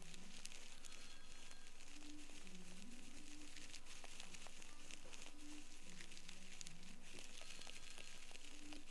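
Ear-cleaning tool working in an ear canal close to the microphone, giving a dense stream of small irregular crackles and scratches through earwax.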